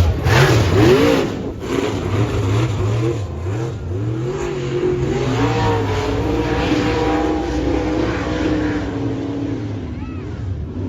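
Engine revving, its pitch rising and falling over and over, with a loud surge in the first second.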